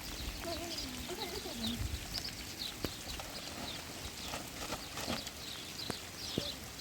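Small birds chirping over and over against a steady hiss, with a short wavering animal call in the first two seconds.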